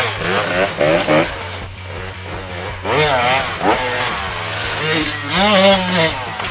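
2017 KTM 150 XCW's two-stroke single-cylinder engine revving up and down over and over, its pitch rising and falling with the throttle.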